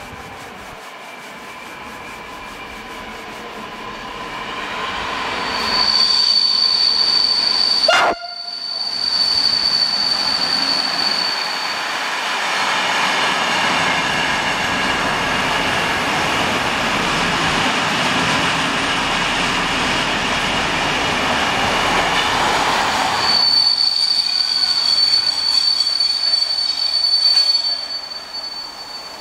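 A train running into the station and braking: wheels rumbling over the rails, with a high, steady squeal that comes in twice. There is a brief sharp sound about eight seconds in. The noise falls away near the end as the train comes to a stop.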